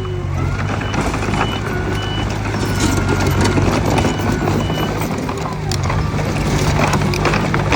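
Diesel engine of a Mitsubishi BD2F crawler bulldozer running steadily under load, with the steel tracks clanking irregularly and squealing.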